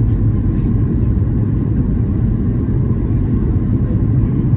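Steady low rumble of a Boeing 737-800's cabin on final approach: airflow over the airframe and the CFM56 engines, with the flaps set to 30.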